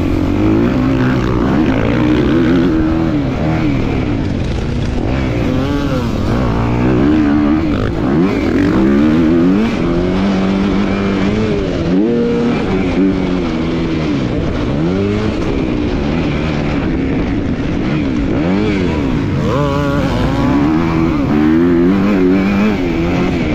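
250cc motocross bike engine under race load, its pitch climbing and dropping again and again as the throttle is opened and chopped and the gears are run up and down.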